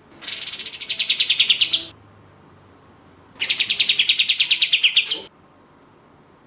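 A kapas tembak (katem) bulbul singing two rapid, rattling trills of about a dozen notes a second. Each trill lasts nearly two seconds, and the second comes about a second and a half after the first. The first trill drops in pitch partway through.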